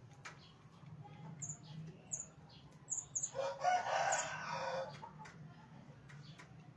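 A rooster crows once, a single call of over a second starting about three seconds in. Short high chirps from small birds come just before it.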